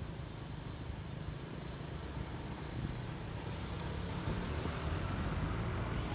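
Honda ADV150 scooter's single-cylinder engine running at speed, mixed with steady road and wind noise, getting slightly louder in the second half.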